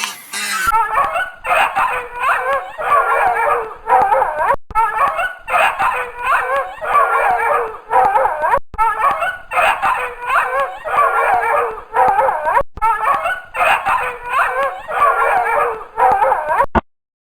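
Several puppies whimpering and yipping in a dense, overlapping chorus of high, wavering cries, broken by short gaps about every four seconds.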